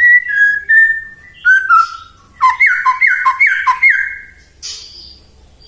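White-rumped shama (murai batu) singing: a few clear whistled notes, then a run of five quick down-slurred whistles at about three a second, mixed with harsh scratchy notes.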